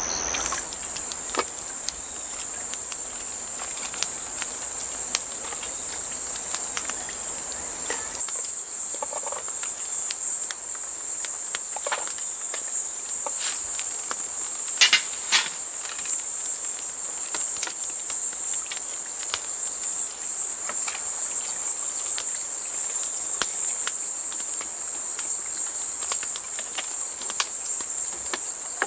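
A chorus of crickets and other grass insects trilling in one steady high band. Scattered sharp clicks and knocks fall over it, the loudest about fifteen seconds in.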